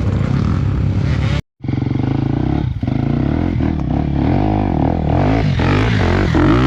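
Trail motorcycle engine revving up and down again and again under load, with a brief cut-out of all sound about a second and a half in.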